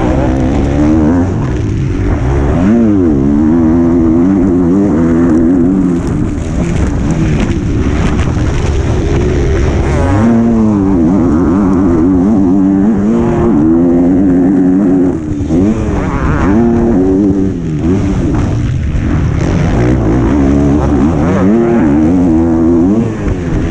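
Onboard sound of a 125 cc two-stroke motocross bike engine revving hard, its pitch climbing and falling repeatedly as the throttle is opened and shut, with a few brief drops about 15, 17 and 23 seconds in.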